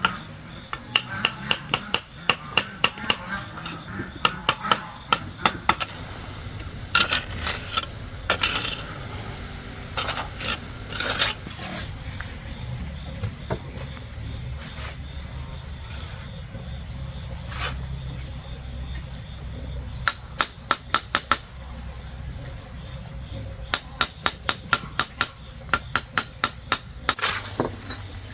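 Runs of quick, sharp knocks, about five a second, that come in bursts with pauses between, over a low steady rumble.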